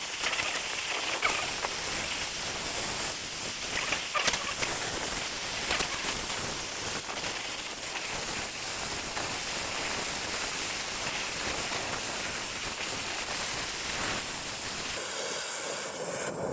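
Steady rushing hiss of a heating tool played on the aluminium around a seized exhaust stud, to loosen it, with a few light clicks and knocks.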